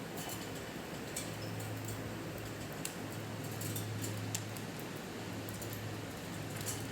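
Budgerigars moving about: scattered sharp little clicks and ticks over a steady low hum.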